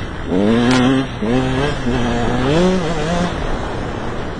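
KTM 125 EXC's single-cylinder two-stroke engine accelerating through the gears: three rising pulls in pitch, each broken by a short dip, then running lower and steadier near the end. A sharp click just under a second in.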